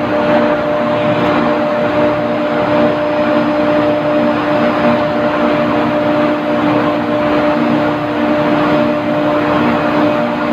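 Steady machinery drone, a constant hum over an even rushing noise with no change, such as running plant-room machinery.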